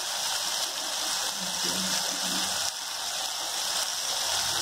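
Shallots, garlic and tomatoes frying in hot oil in a kadai: a steady sizzle. The tomatoes have cooked down to a soft mash, ready for the coconut.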